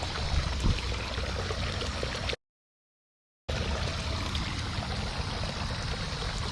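Creek water running over rocks, a steady rushing with a low rumble. The sound drops out completely for about a second, a little over two seconds in, then resumes unchanged.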